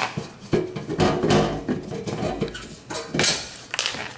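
Irregular metallic clinks and knocks of a tool on the screws and sheet-metal lower access panel of a dishwasher as the panel screws are backed out, with one sharper knock a little after three seconds.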